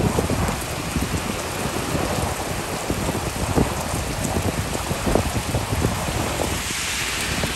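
Rain pouring down steadily, with many close, irregular taps of drops.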